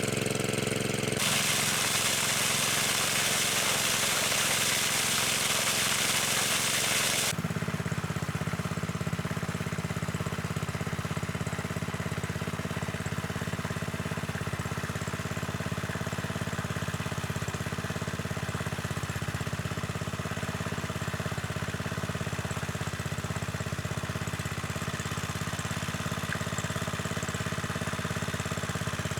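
A small engine running steadily. For the first several seconds a loud hiss lies over it, then cuts off suddenly, leaving the engine's steady low hum.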